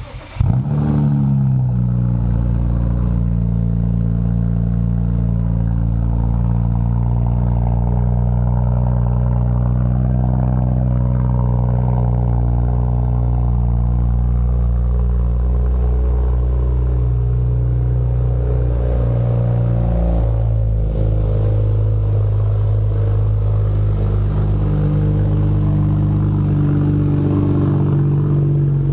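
BMW 335i's turbocharged straight-six cold-starting through a 3.5-inch stainless steel aftermarket exhaust with high-flow downpipes: it catches, flares briefly, then settles into a loud, steady fast idle that drops a little in pitch about two-thirds of the way through. The exhaust note echoes off a nearby building wall.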